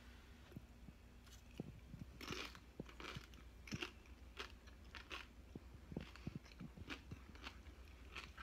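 A person chewing a crunchy chip topped with corn dip: faint, irregular crunches and wet mouth clicks.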